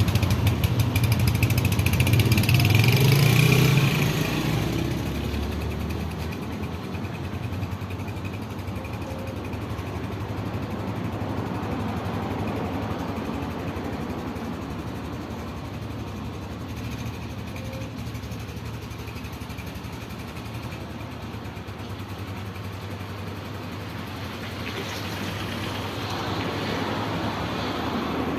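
Motorcycle engine running steadily: loud for the first four seconds, then quieter, swelling a little again near the end.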